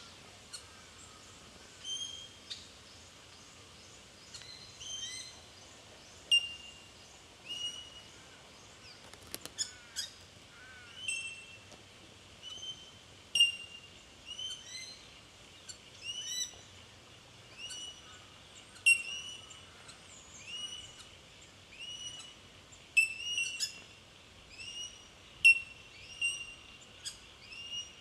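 Bell miners calling: a long series of short, clear, bell-like 'tink' notes at irregular intervals of about a second.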